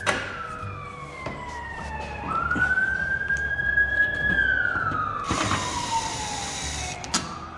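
Emergency vehicle siren on a slow wail, its pitch falling, climbing back up and holding, then falling again before rising once more near the end. A short hiss cuts in a little after the middle.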